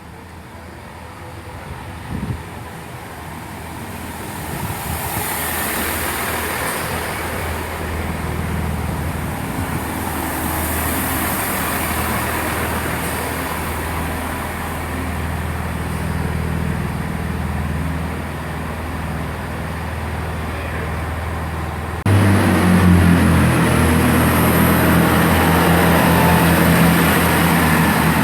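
Class 165 diesel multiple unit's engines running in the platform, a steady low drone that builds gradually, with a sharp click about two seconds in. About 22 seconds in, the engines step up sharply and run louder as the train powers up to pull away.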